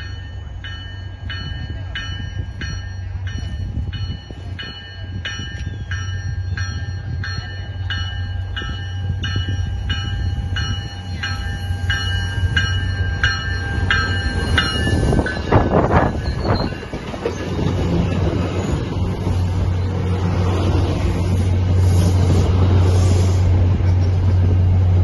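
MBTA commuter rail train approaching with a bell ringing steadily, about one and a half strikes a second, for some fifteen seconds, then a short horn blast. After that the diesel locomotive's deep steady hum and the rumble of the coaches passing close by grow louder.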